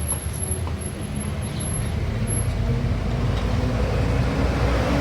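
Freshly rebuilt Bajaj Pulsar 150 single-cylinder four-stroke engine running after start-up, its rapid low exhaust beat growing gradually louder as the revs rise.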